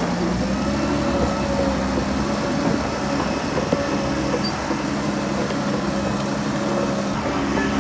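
Heavy diesel engine of earthmoving machinery running steadily with an even hum.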